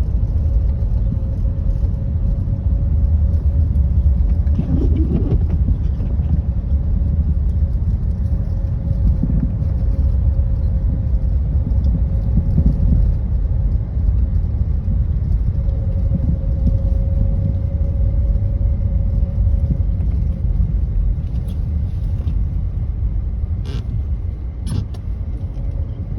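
Vehicle driving on a snow-covered road: a steady low rumble of engine and road noise with a constant hum over it, and two short clicks near the end.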